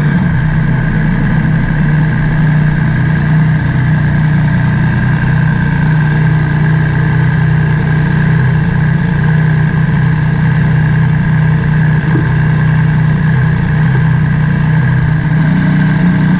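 Motorcycle engine idling steadily, with a strong, even low hum that holds the same pitch throughout.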